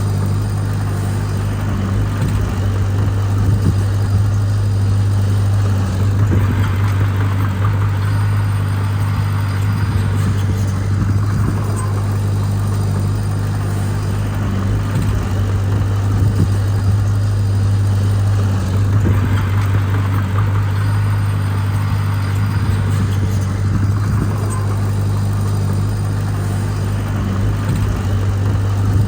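Heavy diesel engine of earthmoving equipment running steadily at a constant pitch, with a higher rushing noise that swells and fades every few seconds.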